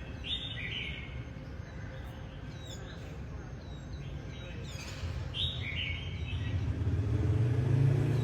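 Small birds chirping in short calls, a few at a time, over a steady low rumble of traffic. Near the end an engine hum grows louder as a vehicle comes close.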